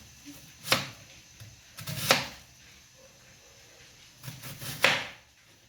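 A kitchen knife cutting red onions on a cutting board: a few slow, separate knife strikes, about three in all.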